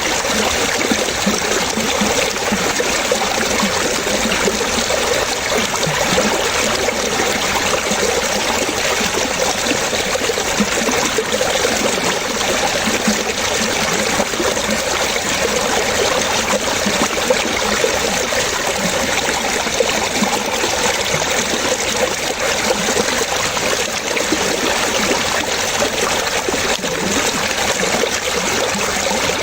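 Running water splashing and trickling steadily.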